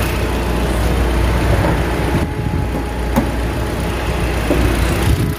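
Kia Sportage engine idling with a steady low hum, and a single sharp click about three seconds in.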